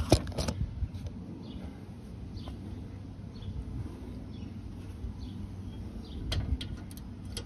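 Faint, scattered bird chirps over a low steady outdoor rumble, with a few sharp clicks of hand tools on the brake parts near the start and a short cluster of them about six seconds in.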